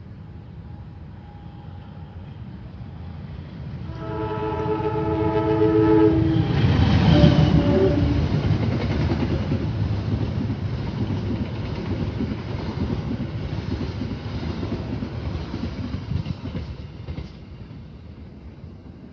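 Passenger train of stainless-steel coaches passing close: the locomotive's multi-tone horn sounds for about two seconds some four seconds in as it approaches, then the rumble peaks as it goes by, followed by a long run of wheel rumble and clickety-clack from the coaches that fades near the end.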